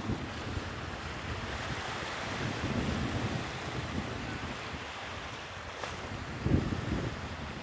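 Sea waves washing on the shore, with wind buffeting the microphone in gusts, strongest about six and a half seconds in.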